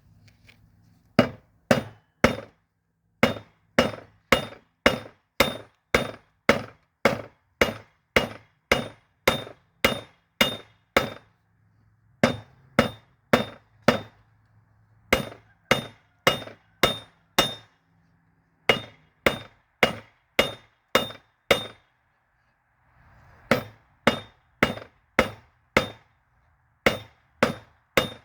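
Hand hammer striking a steel railroad spike on an anvil during forging, a little under two blows a second. The blows come in runs of several, with short pauses between runs, and each blow rings briefly. A steady low hum runs underneath.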